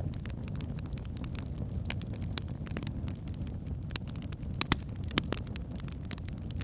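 Wood fire in a fireplace: burning logs crackling with irregular sharp pops over a steady low rumble of the flames, the loudest pop a little under five seconds in.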